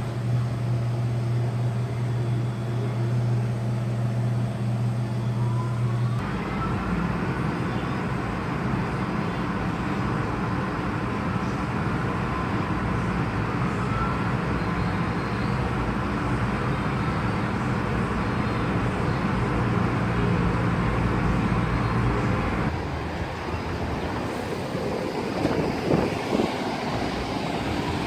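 Car wash equipment running: a steady motor hum at first, then a broad rush of spray or brush noise that changes character about six seconds in and again about twenty-three seconds in, with a few short knocks near the end.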